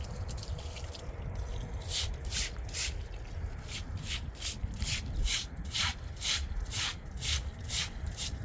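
Rhythmic scraping strokes, about two or three a second, starting about two seconds in, over a steady low rumble.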